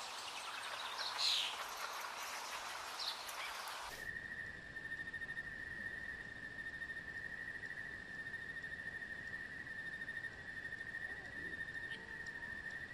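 Faint outdoor ambience with a few short high chirps for the first few seconds. About four seconds in it gives way to a steady insect trill, like a cricket's, held on one high pitch.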